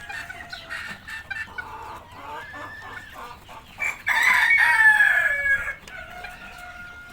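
White Rose Comb bantam chickens calling: short clucks in the first few seconds, then a rooster crows loudly about four seconds in, the call falling in pitch over nearly two seconds, and another long held call follows near the end.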